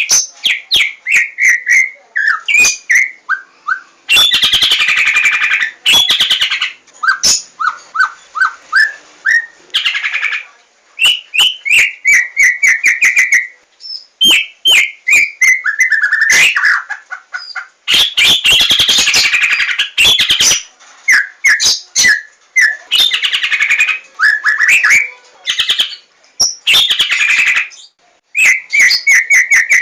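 Javanese white-rumped shama (murai batu) singing a loud, varied song. Its phrases of gliding whistles and quick trills are broken up by harsh rasping passages and rapid sharp ticks, one phrase after another with short gaps.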